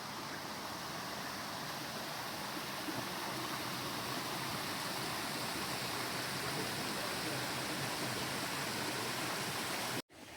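Steady rushing of running water from a stream. It cuts out abruptly near the end and comes back quieter.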